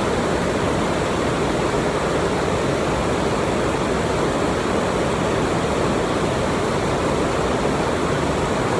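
A river waterfall rushing: a steady, loud wash of falling water that does not change.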